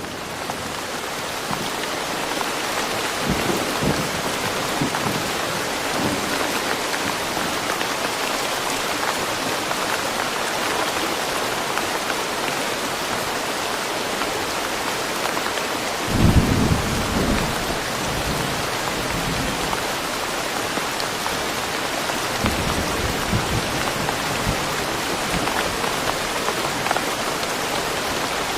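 Steady rain falling in a forest, with low rumbles of thunder now and then, the loudest about halfway through.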